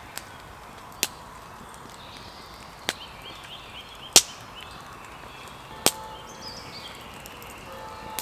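Wood campfire burning with sharp, irregular pops about every one to two seconds, over faint birdsong.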